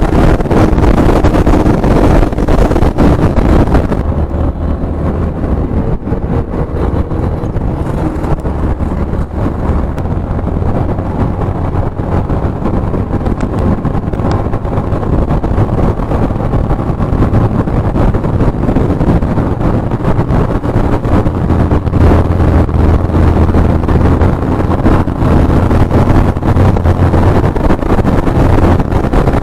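Inline-four superbike engine running with a steady low drone, with wind buffeting the microphone. The hiss of the wind drops about four seconds in, and the engine's low note grows louder later on.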